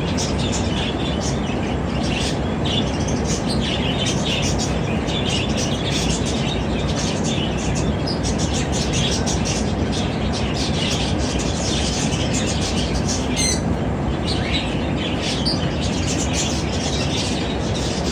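Zebra finches chirping, many short calls in quick succession and overlapping, with one sharp rising call about two-thirds of the way through, over a steady low rushing noise.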